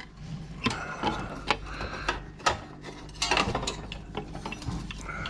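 Irregular clicks and knocks of computer parts and wiring being handled and moved about, about a dozen in a few seconds.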